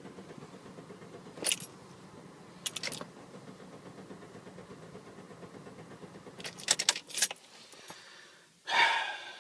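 Car keys jangling and clicking in the ignition as the key is worked, in a few short bursts, over a faint steady background; the engine does not start. A louder short burst of noise comes near the end.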